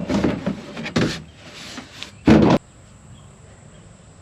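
Knocks and scrapes of metal parts being handled on a combine, ending in one loud, short metal noise about two and a half seconds in that stops abruptly.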